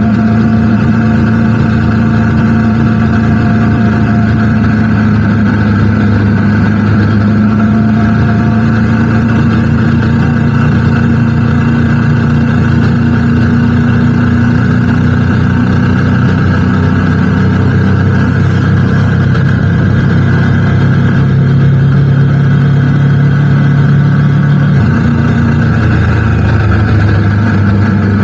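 Motorcycle engine running at a steady cruise with road and wind noise, its note shifting briefly about 25 seconds in.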